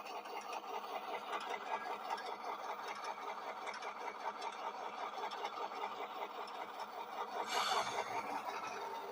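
Sound-equipped model diesel locomotive's decoder playing a diesel engine running through its small onboard speaker, a steady fast mechanical chug. A short burst of hiss comes about seven and a half seconds in.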